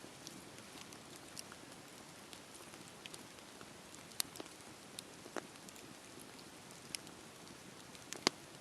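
Campfire burning: wood crackling with a steady low hiss and scattered sharp pops, the loudest about four, five and eight seconds in.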